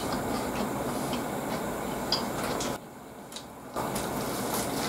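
A man chewing a lettuce-wrapped burger close to the microphone, with light crunching over a steady hiss; the hiss dips for about a second near the middle.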